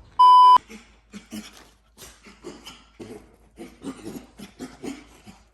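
A short, loud electronic beep about a quarter second in, then a dog yapping in quick short bursts, two or three a second.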